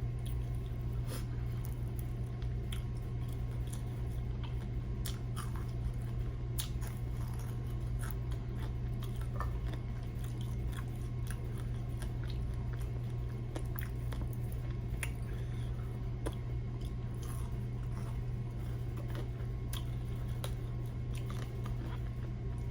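A person eating flour-coated fried chicken: chewing, with scattered crisp crunches as the crust is bitten, over a steady low hum.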